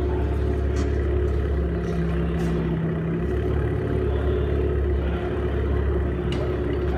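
Ford Fiesta ST engine running steadily through a custom 2.5-inch exhaust with a resonator and no muffler, giving a constant deep drone that dips briefly about three seconds in.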